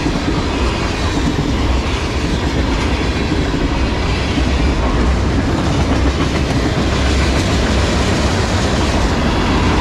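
A freight train's tank cars and covered hopper cars rolling past at close range: a loud, steady rumble and rattle of steel wheels on the rails.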